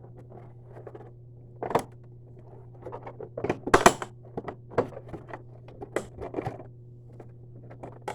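Scattered clicks, knocks and clatter of hard plastic being handled, loudest in a cluster about three and a half to four seconds in, over a steady low hum.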